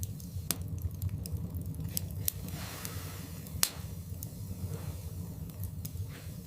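Wood fire burning in a fireplace: a low steady rumble with scattered sharp crackles and pops, the loudest about three and a half seconds in.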